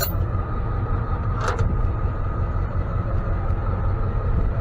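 Tow truck engine running steadily, a low rumble with a faint steady whine above it and a brief click about one and a half seconds in.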